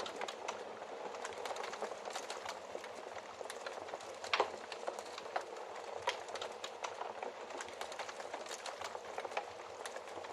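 Wood fire crackling, with a steady hiss and frequent small pops, and a louder pop about four seconds in.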